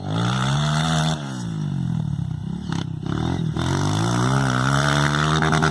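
Motocross dirt bike engine revving, its pitch rising and falling twice as the rider works the throttle.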